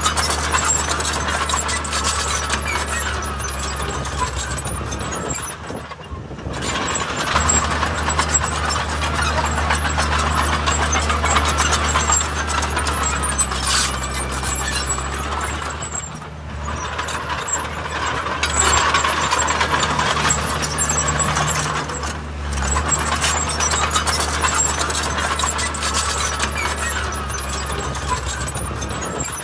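A heavy diesel construction machine's engine working steadily, with machinery clatter over it. Its level drops briefly three times along the way.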